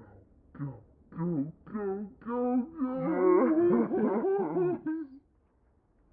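Wordless vocalizing: a run of short sing-song calls, then two voices wailing and humming together in wavering pitch for about two seconds, stopping about a second before the end.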